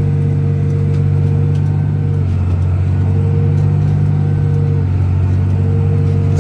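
John Deere 8400 tractor's six-cylinder diesel engine running steadily under load, with its pitch wavering slightly twice.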